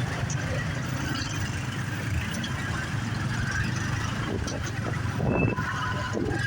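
Motorbike engine running with wind rush while riding through street traffic, a steady low drone under a noisy hiss; a short high beep sounds about five seconds in.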